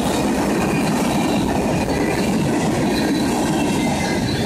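Freight cars of a manifest train rolling past: a steady rumble and clatter of steel wheels on the rails, with faint high wheel squeals coming and going.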